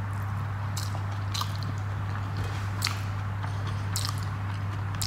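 A person chewing a mouthful of rice with fried bitter gourd and pumpkin eaten by hand, with a few short, soft wet mouth clicks at irregular intervals, over a steady low hum.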